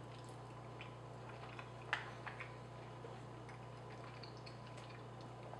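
A person chewing a mouthful of soft pasta with the mouth closed: a few faint wet mouth clicks, the clearest about two seconds in, over a steady low hum.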